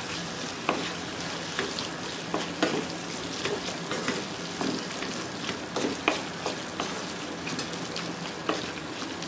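Beef pepper fry sizzling in a frying pan while a wooden spatula stirs it, scraping and tapping against the pan irregularly about once a second.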